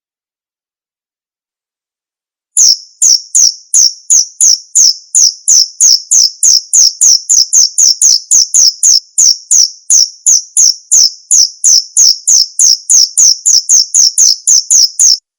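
Male cricket calling: a loud, even train of short, high chirps, about three a second, starting about two and a half seconds in and stopping abruptly just before the end.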